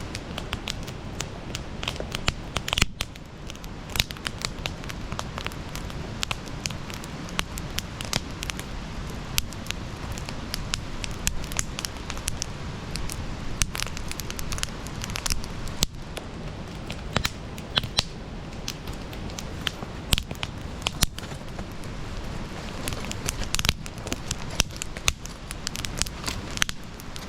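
Wood campfire burning, with frequent irregular sharp crackles and pops over a steady low hiss and rumble of the flames.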